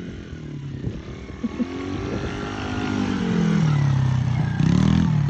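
Small Yamaha kids' motorbike engine running, louder as it comes nearer, its pitch rising and falling with the throttle: it eases off about four seconds in, then revs up again near the end.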